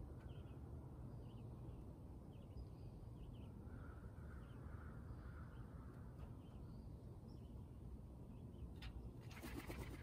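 Faint short bird chirps repeating every half-second or so over a low outdoor rumble, with a brief rustling clatter near the end.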